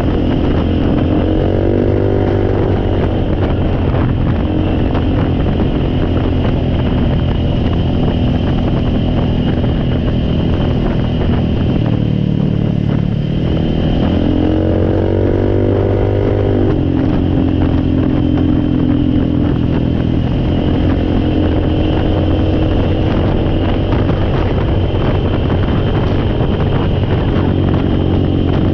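Engine running steadily, its revs rising and falling a few times: a rise about a second in, a longer rise and hold past the middle, and another rise right at the end.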